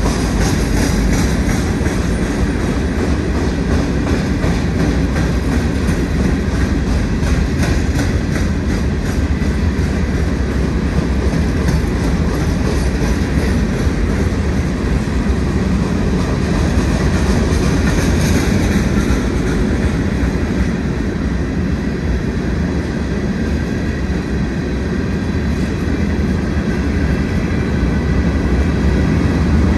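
A long Providence & Worcester freight train of open-top stone hopper cars rolls past in a steady rumble, its wheels clicking over the rail joints. It grows louder near the end as the diesel locomotives come up.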